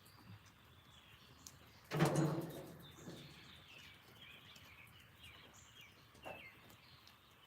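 Small wild birds chirping and twittering in short high calls, busiest in the middle and later part. About two seconds in there is a sudden, louder low sound that fades over about a second.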